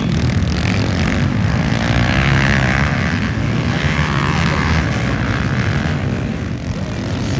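Motocross bike engines running and revving, a loud, continuous buzz with the pitch wavering up and down.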